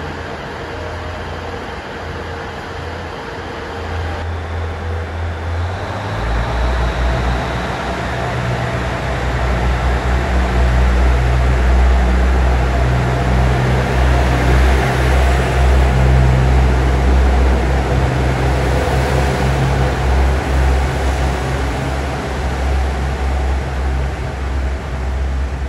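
Train at a station platform, its running noise building up and then easing slightly, over a steady low mechanical hum.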